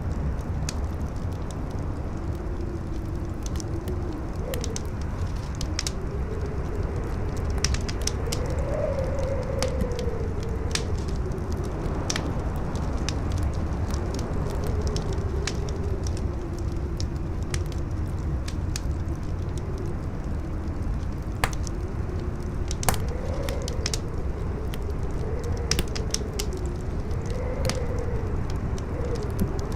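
Campfire crackling, with frequent sharp pops and snaps, a few of them louder. Beneath it, strong wind howls with a pitch that slowly rises and falls over a steady low rumble.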